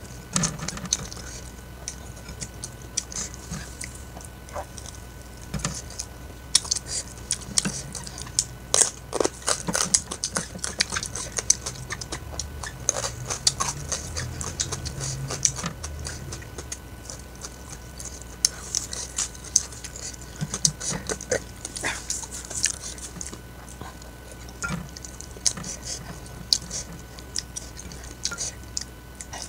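Close-up chewing and mouth sounds of a person eating fried chicken by hand: a steady, irregular run of small sharp clicks and smacks.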